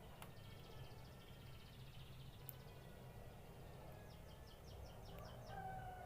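Faint canary song: scattered chirps, then a quick trill of repeated falling notes about four seconds in, over a low steady hum.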